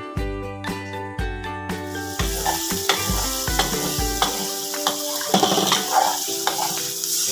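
Ground red chili spice paste frying in a wok, sizzling with a steady hiss from about two seconds in, while a metal spatula stirs it and clicks against the pan. Background music plays throughout.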